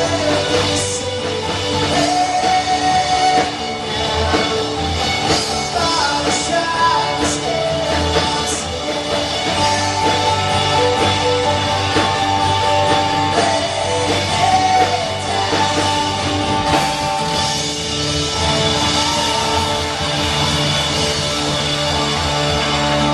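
Live band playing a rock-style worship song, with guitar and singing.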